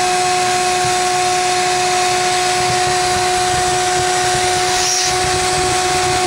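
Bee vacuum motor running steadily as it sucks up bees during a hive removal: a constant whine over a rushing hiss of air.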